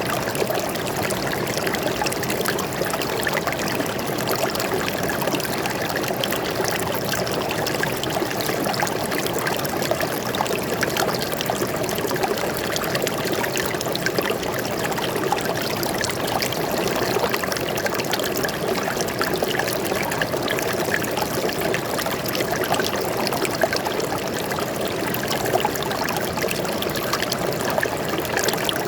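Forest stream flowing steadily, water trickling and splashing over rocks.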